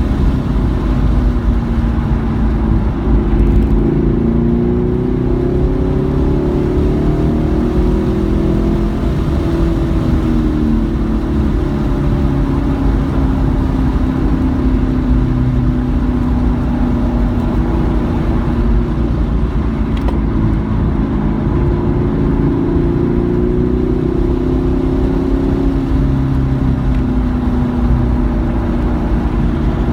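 Car engine under hard driving on a race track, its pitch climbing and dropping repeatedly as it accelerates and slows through the corners. Dense road and wind noise runs underneath.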